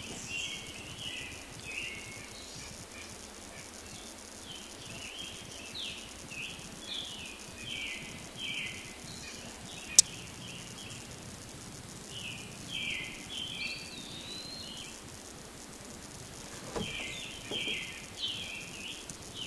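Bird chirping in short clusters of high notes, with a single sharp click about ten seconds in.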